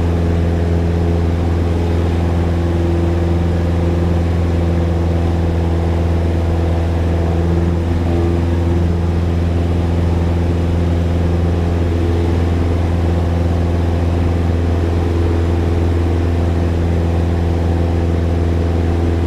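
Cessna single-engine piston aircraft's engine and propeller running steadily in flight, heard from inside the cockpit as a constant low drone.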